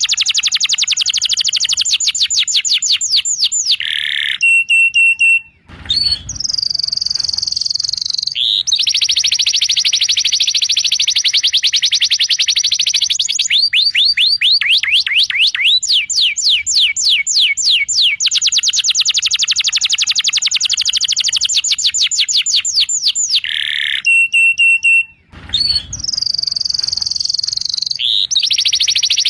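Canary song played as a song-training (masteran) recording: long, very fast high trills with brief steady whistled notes. The same phrase sequence comes round again about 20 seconds later, as a looped track.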